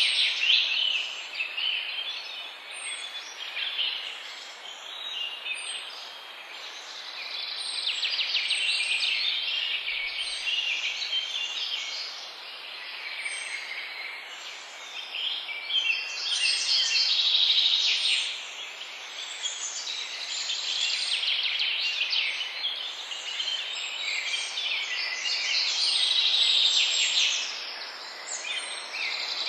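A chorus of many songbirds chirping and singing together, swelling and fading every several seconds. One short, very high note repeats about every second and a half over steady background hiss.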